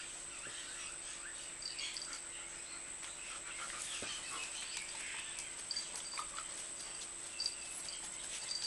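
Puppies making scattered soft, short, high-pitched squeaks with light scuffling taps.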